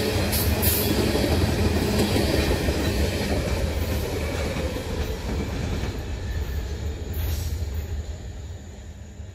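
Freight train's last tank cars and a trailing boxcar rolling past on steel rails, with a few wheel clacks near the start. The wheel-and-rail rumble then fades steadily as the end of the train moves away.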